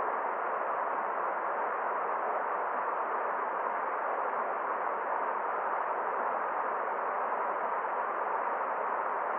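Forest stream flowing: a steady, even rush of water with no separate splashes or other events.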